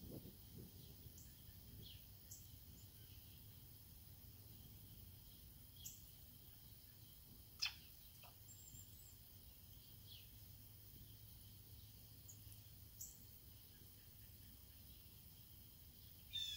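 Faint outdoor background with a few brief, scattered bird chirps, the sharpest a quick falling chirp about halfway through.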